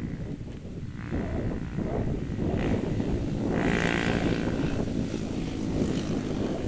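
Excavator's diesel engine droning under heavy wind buffeting the microphone; a steadier engine tone comes through about halfway.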